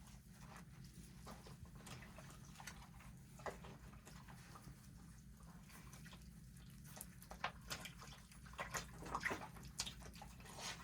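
Faint water splashing and dripping as a puppy is washed in a small bath, with scattered light splashes that come more often in the last few seconds.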